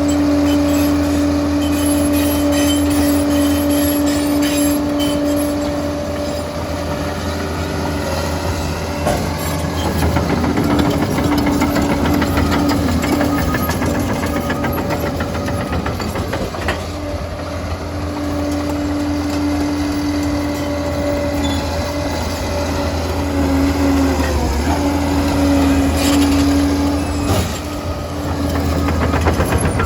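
Liebherr PR 746 crawler dozer working: a steady deep engine rumble under a constant whine that fades out and comes back several times, with rougher clattering spells as the machine works.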